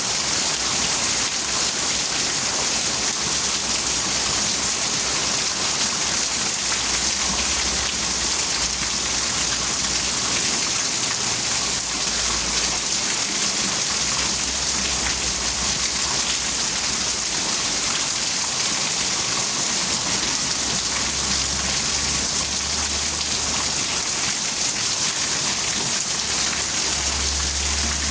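Steady heavy rain falling, a dense even hiss, with a faint low rumble coming and going underneath.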